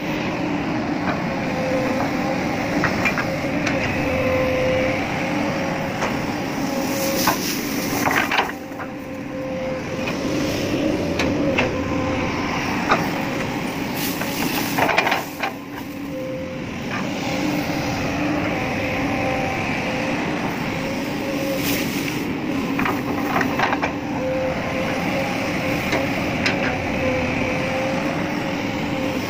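Excavator engine running steadily, with several short hisses and clatters breaking in, such as during loading of iron chips.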